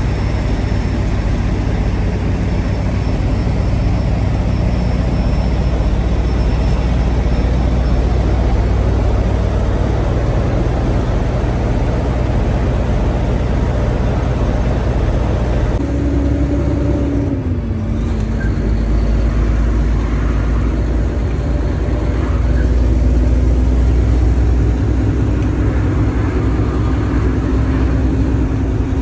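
A truck running on the road, with a steady low engine drone and road noise. About halfway through, the engine note drops and then slowly climbs again.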